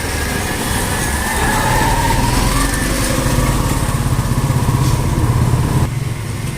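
Motorcycle engine running steadily with a pulsing low note, and a brief gliding tone about two seconds in.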